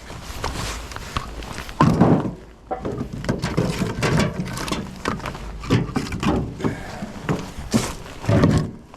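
Split firewood pieces knocking and clattering against one another as they are handled and tossed, a string of irregular wooden knocks with heavier thuds about two seconds in and near the end.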